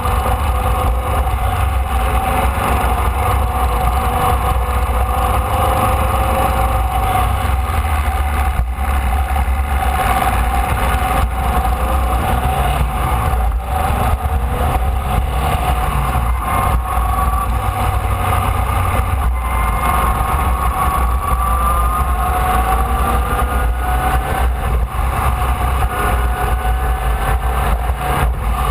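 Formula Vee race car's air-cooled Volkswagen flat-four engine running steadily, heard from an onboard camera, with a few rising revs in the second half.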